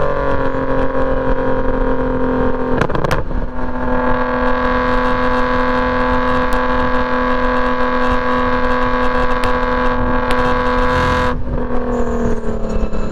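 BMW E46 M3's S54 straight-six with a straight-piped exhaust running hard on track: a brief break in the note about three seconds in as it changes gear, then a long steady pitch at constant revs, and the pitch falling near the end as it comes off the throttle.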